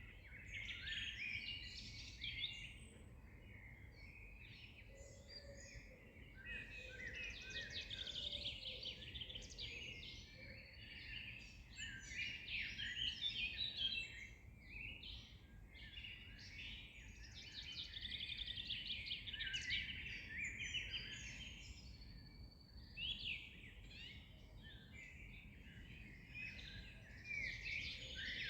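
A chorus of songbirds singing and chirping, several voices overlapping in rapid trills and twitters that swell and ebb, over a faint low background rumble.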